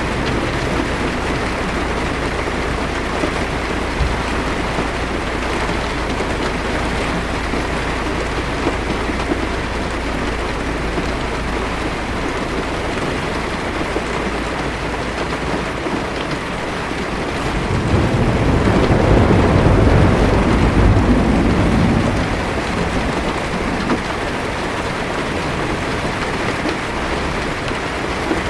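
Heavy rain falling steadily on a car's windshield and roof, heard from inside the car. About two-thirds of the way through, a low roll of thunder swells for a few seconds and fades.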